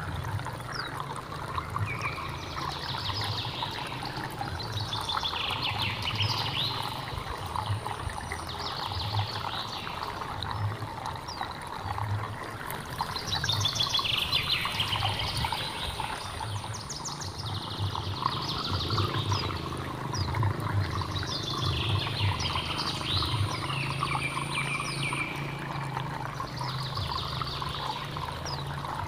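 Hill stream trickling and splashing steadily, with birds singing short repeated phrases over it every few seconds.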